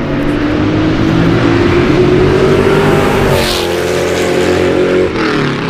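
Two cars racing past at full throttle, their engines climbing steadily in pitch under hard acceleration for about three seconds, then running on at a higher pitch and fading as they pull away.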